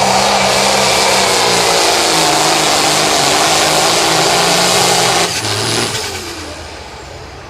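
Limited pro stock pulling tractor's diesel engine running flat out under load during a pull, then throttled back sharply about five seconds in as the pass ends, the sound falling away.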